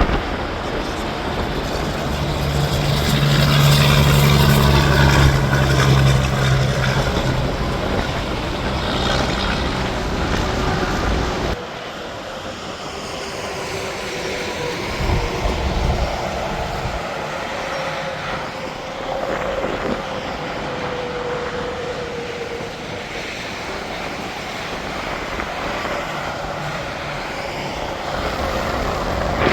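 Highway traffic with trucks passing at speed, a steady rush of tyre and engine noise. A passing truck's low engine note is loudest about four to six seconds in. The sound drops abruptly a little before halfway, and lighter traffic continues.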